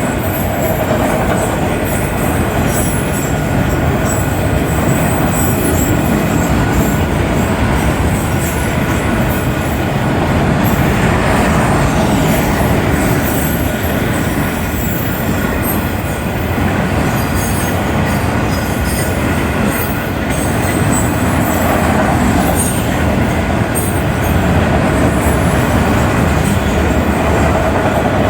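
Freight cars of a Union Pacific manifest train rolling past: a loud, steady rumble of steel wheels on rail, with a thin wheel squeal running under it.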